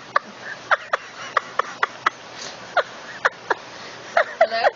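A parrot making a series of short, sharp chirps, each sweeping quickly down in pitch, about a dozen spread irregularly, with a quicker cluster near the end.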